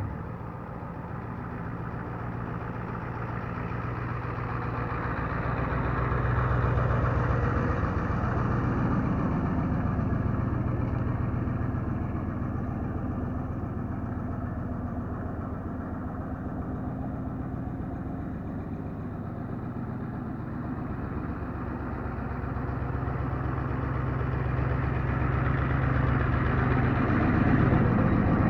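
Naturally aspirated 7.3 IDI V8 diesel of a 1993 Ford F-350 idling steadily after a cold start, with a fast, even diesel clatter over a low hum. It grows somewhat louder a few seconds in and again near the end.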